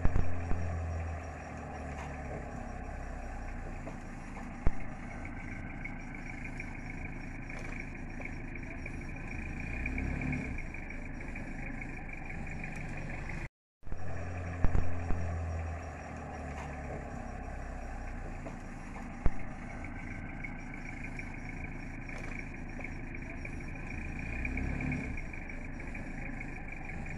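A car engine running slowly, with a steady high-pitched drone behind it and a few sharp knocks. The same stretch of sound plays through twice, with a brief break in the middle.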